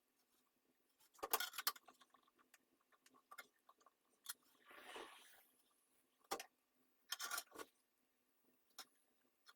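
Scattered metal clinks and clatter from tools and small parts handled at a workbench, with two denser bursts of clattering about a second in and about seven seconds in, and a short rasping scrape near the middle.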